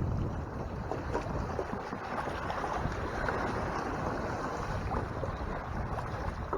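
Water rushing and splashing along the hull of a sailing kayak under way, with wind buffeting the microphone as a steady low rumble.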